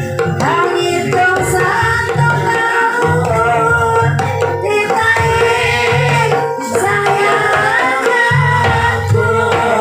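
Ebeg gamelan music: a singer's wavering melody over steady gamelan tones and a repeating hand-drum (kendang) pattern.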